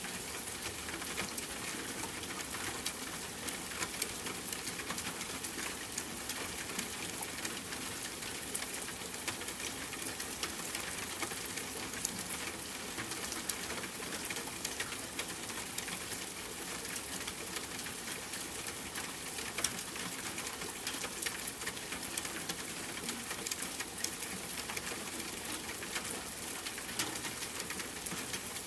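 Steady rain falling, with a constant hiss and many small drops ticking on a surface.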